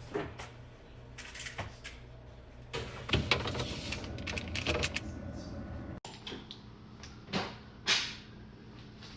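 Kitchen handling sounds: scattered clicks, taps and knocks of containers and utensils being moved and set down, with a few louder knocks in the second half.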